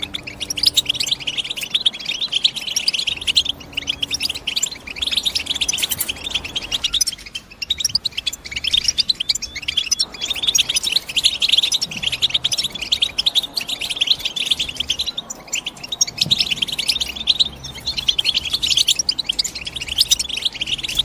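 European goldfinch singing: long phrases of rapid, twittering chirps, broken by short pauses every few seconds.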